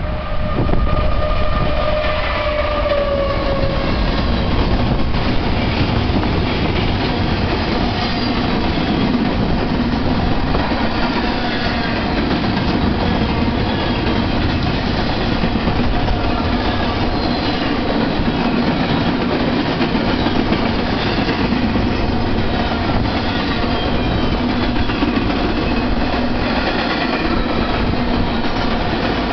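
BNSF freight locomotive sounding its horn once for about three seconds, the tone dipping in pitch as it ends. Then the train's empty double-stack well cars roll past close by with a steady rumble and the clickety-clack of wheels over the rails.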